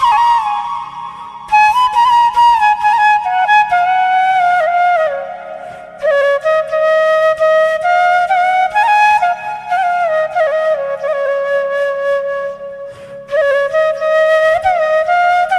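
Background music: a flute playing a slow, ornamented melody in phrases, over a steady low drone.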